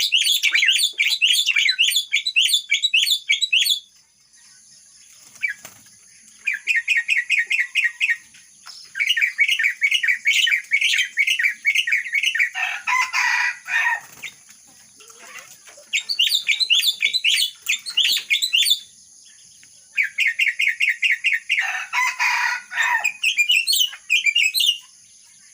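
A myna singing in bouts of rapid chirping notes with short pauses between, mimicking a red-whiskered bulbul's song, with lower, harsher calls about halfway through and again near the end.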